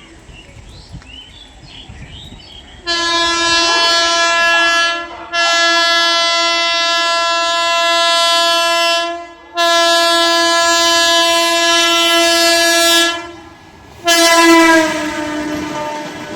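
Electric local train's horn sounding four long blasts, the last one shorter and dropping in pitch as the train passes, then the train running through the station with a rising rumble and rail clatter.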